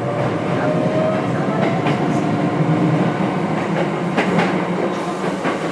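Running sound of a Nose Electric Railway 5100 series train (ex-Hankyu 5100, resistance-controlled) heard from inside: a steady rumble of wheels on rail, with a faint motor tone rising in pitch over the first second or so. A couple of sharp rail-joint clicks come about four seconds in.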